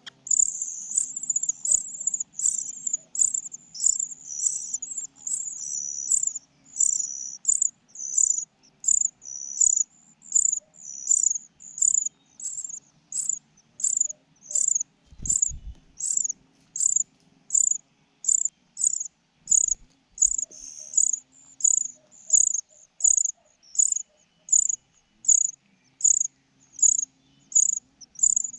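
A steady series of short, high-pitched chirps, about two a second, keeping an even rhythm throughout.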